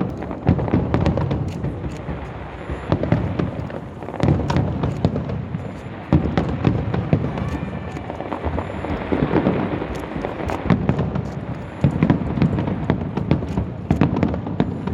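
Fireworks display: a continuous run of bangs and crackling, with heavier booming bursts every couple of seconds.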